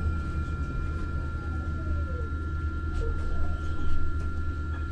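Muni Metro light-rail car running, heard from inside the passenger cabin: a steady low rumble with a thin steady high whine, and a faint falling squeal about two seconds in.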